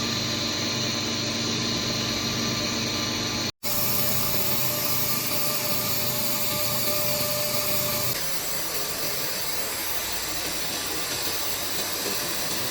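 Steady mechanical hiss and hum of welding equipment running, cut off abruptly for a moment about three and a half seconds in and changing in tone about eight seconds in.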